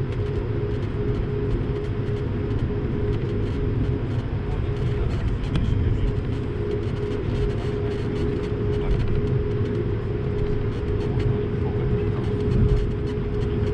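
Cabin noise inside an Airbus A220-300 airliner: a steady rumble from its Pratt & Whitney PW1500G geared turbofan engines and the airflow, with a constant mid-pitched hum over it.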